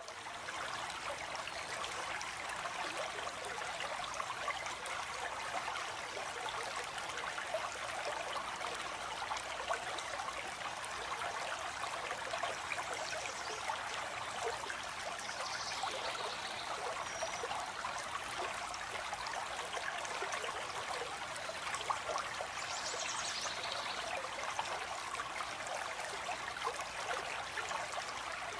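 Water flowing steadily in a stream, an even rushing and trickling, with a few faint high bird calls about halfway through and again later.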